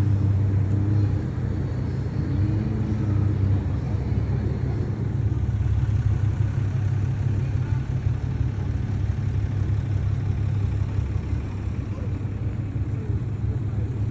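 Car engine idling with a low, steady rumble; the pitch lifts slightly a couple of times in the first few seconds.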